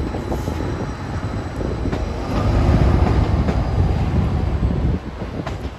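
Diesel multiple-unit passenger train passing directly below, a low rumble of engine and wheels on the rails. It is loudest in the middle and drops off sharply about five seconds in as the train pulls away.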